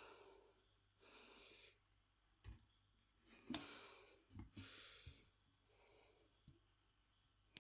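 Quiet kitchen sounds: a few faint clicks and knocks of a utensil against cookware, with soft breathy hisses between them.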